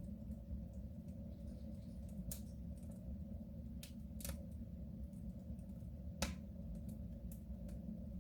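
Wood fire crackling in a soapstone stove: a handful of sharp, irregular pops over a steady low rumble.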